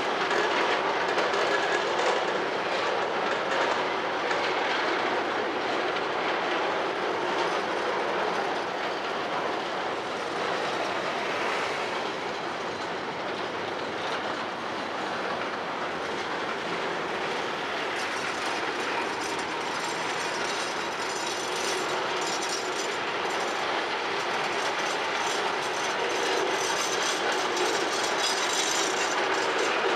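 Freight train of box wagons rolling past, the steady clatter of wagon wheels on the rails.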